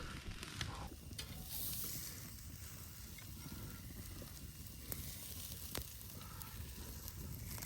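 Faint, steady crackle and hiss of a campfire, with a few sharp pops.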